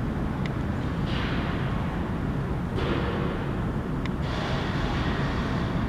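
Freight train cars rolling past on the rails: a steady low rumble with a couple of faint sharp clicks.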